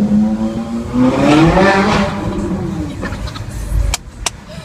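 Ferrari sports car engine revving: its note holds, climbs about a second in, then falls away. Two sharp clicks follow near the end.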